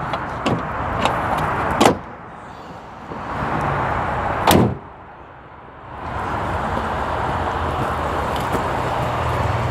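Shutting parts of a 2018 Ford F-150 pickup's body: two heavy slams about three seconds apart, with a lighter click before them, over a steady background noise.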